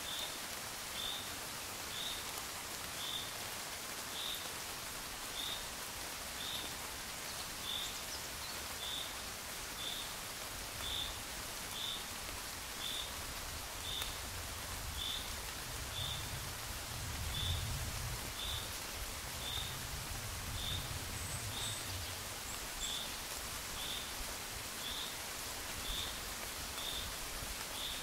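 Steady gentle rain, an even hiss, with a short high chirp repeating about once a second. A low rumble swells and fades in the middle.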